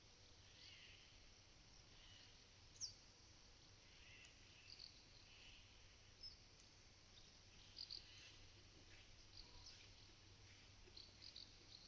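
Faint, scattered short chirps of small birds over a very quiet pasture background, the loudest a single brief downward-sliding note about three seconds in.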